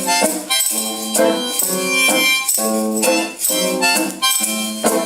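Live acoustic instrumental break between sung verses: chords played in a steady rhythm, with no singing.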